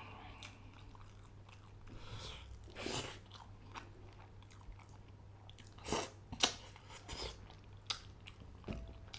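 Close-up chewing and wet mouth sounds of someone eating fish curry and rice by hand, with scattered sharp smacks and crunches, the loudest about six seconds in. A steady low hum sits underneath.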